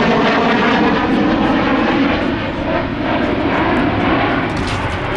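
Alenia Aermacchi M-346 Master jet trainer's twin turbofan engines running loud and steady during a display flight, easing slightly about halfway through.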